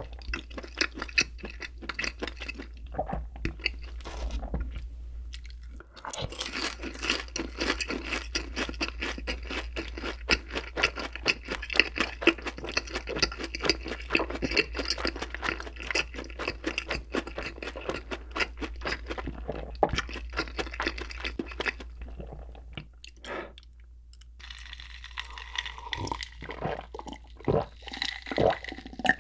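Close-miked crunchy chewing of a fried cheese ball, a fast dense crackle. Near the end it gives way to gulps from a jar of iced drink.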